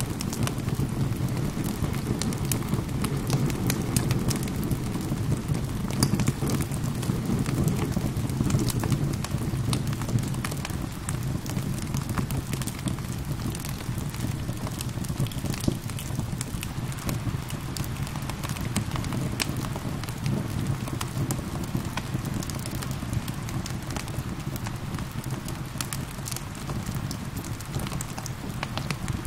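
Steady rain mixed with a crackling fire: a constant low rushing beneath frequent small pops and crackles.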